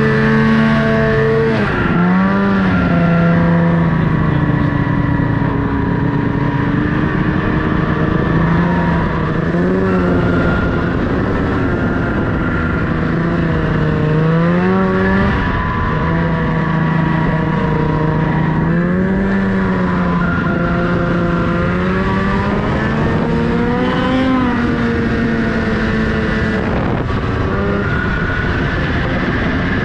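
Snowmobile engine running under way, its pitch rising and falling over and over as the throttle is worked, with rushing noise underneath.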